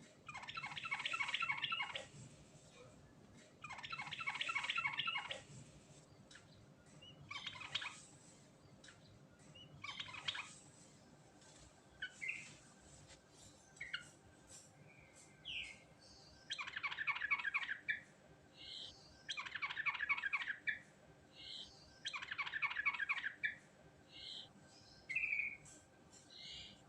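Yellow-vented bulbul (trucukan) singing in full voice: rapid chattering trilled phrases about a second and a half long, repeated every few seconds, with short single notes between them.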